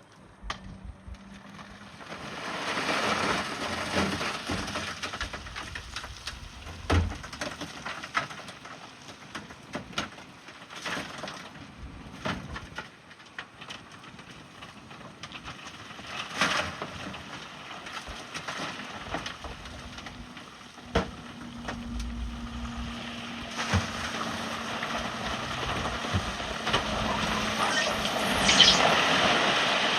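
Bulldozer working rock: a grinding, scraping noise with repeated sharp knocks and cracks, and a faint steady engine tone underneath in the second half.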